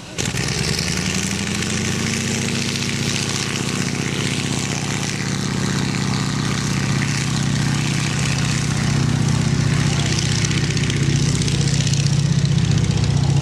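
Light propeller aircraft's piston engine running up to power: the pitch rises over the first two seconds, then holds steady as it slowly grows louder.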